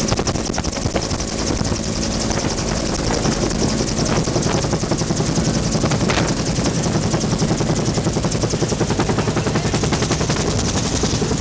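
Bell UH-1 "Huey" helicopter in flight: the fast, steady chop of its two-bladed main rotor, with a steady high hiss over it.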